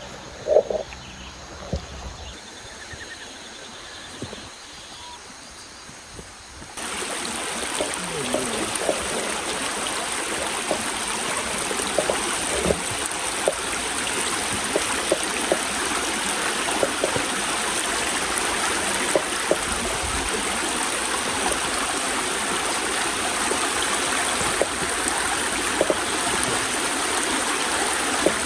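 Creek water flowing, a steady rushing hiss that jumps suddenly louder about seven seconds in and then holds steady.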